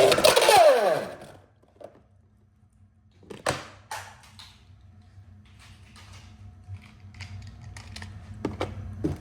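Two Beyblade X spinning tops launched into a plastic stadium: a loud launcher rip with a falling whine of the spinning tops in the first second. After a quiet stretch come two sharp clacks about three and a half and four seconds in as the tops strike, then light plastic clicks toward the end.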